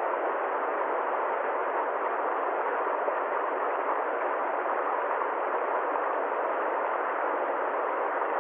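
A steady, unchanging noise with no distinct events, sitting in the middle range: neither deep rumble nor high hiss.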